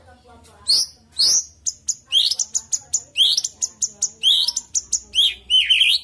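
White-rumped shama (murai batu) singing: a rapid run of short, sharp whistled notes that sweep down in pitch, several a second, mixed with quick chattering clicks.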